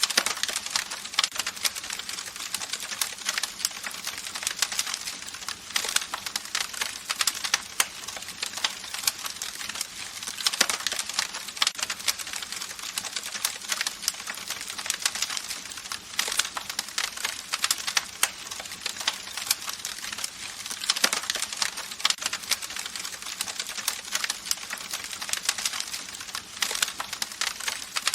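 Campfire burning with continuous dense crackling and popping of the wood over a steady hiss.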